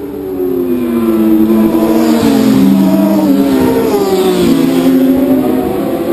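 Race motorcycle engines at high revs, getting louder about a second in; their pitch drops as they slow, then climbs again near the end as they accelerate.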